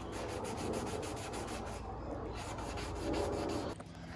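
400-grit wet and dry sandpaper rubbed quickly back and forth by hand along the cut edge of a plastic scooter windshield, smoothing and polishing it. There is a short pause before the halfway point, and the strokes stop near the end.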